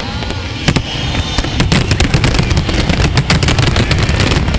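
Fireworks display going off: a sharp bang under a second in, then a dense run of rapid cracks and pops over a steady low rumble.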